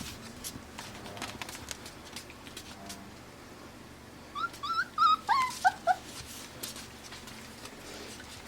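Five-week-old Pembroke Welsh Corgi puppies giving a quick run of short, high yips and squeals while playing, lasting about a second and a half around the middle. Faint scattered ticks and scuffles sound throughout.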